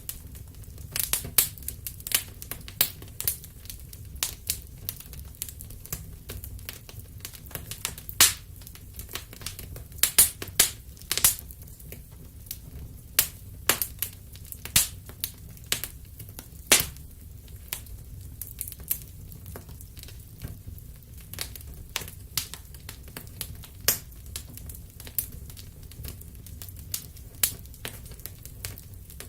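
Wood fire crackling: irregular sharp pops and snaps at uneven intervals, a few much louder than the rest, over a low steady rumble.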